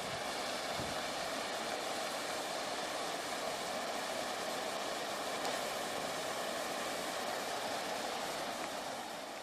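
Steady hiss of heavy rain, an even rushing noise that fades out near the end.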